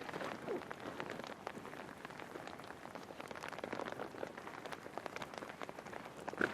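Rain falling, many separate drops ticking close by over a steady hiss, with one louder drop or tap near the end.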